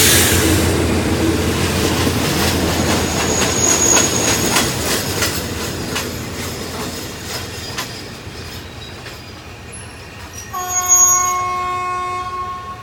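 Diesel passenger train rolling over rail joints, its wheel clicks slowing and fading, with a brief wheel squeal. Near the end a locomotive horn sounds one steady blast for about two seconds.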